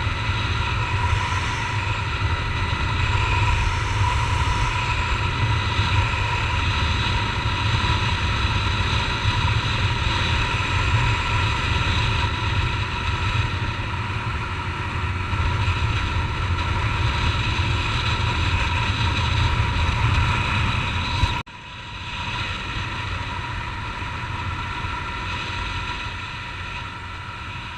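Honda Titan 150's single-cylinder four-stroke engine running at a steady cruise under way, with wind rumble on a helmet-mounted microphone. About three quarters of the way through the sound cuts sharply and resumes quieter, with less of the low rumble.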